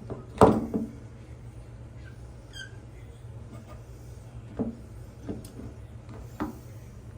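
Scattered knocks and taps, the loudest just under half a second in and three more in the second half, from the old bathroom exhaust fan being handled and worked loose, with a brief squeak about two and a half seconds in.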